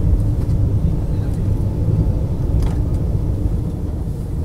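Steady low rumble of the Vande Bharat Express electric train set running on the rails, heard from inside the coach, at a reduced speed of about 50–60 km/h.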